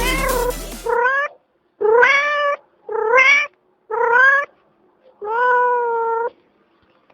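A cat meowing over and over: five separate meows about a second apart, each rising in pitch at the start, the last one drawn out for about a second. Electronic music cuts out about a second in.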